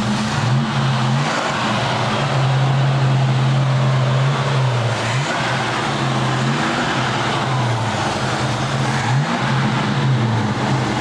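A 1969 Chevrolet C10's 350 small-block V8 is run under throttle through its Loadmaster exhaust, its pitch rising and falling several times as the gas comes on and off. It runs smoothly, with no ticks or knocks.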